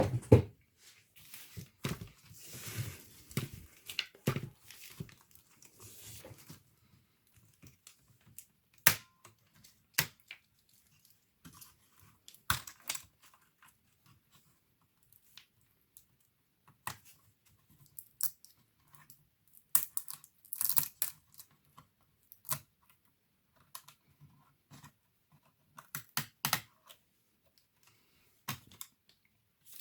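Hands and small tools working on an opened laptop: scattered sharp clicks and small plastic knocks, with a stretch of rustling and scraping in the first few seconds.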